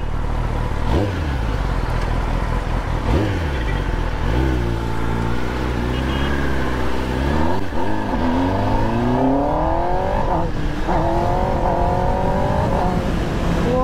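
Kawasaki ZX-10R inline-four engine through a Leo Vince slip-on exhaust, accelerating through the gears. The engine note climbs and falls back sharply at each of several upshifts.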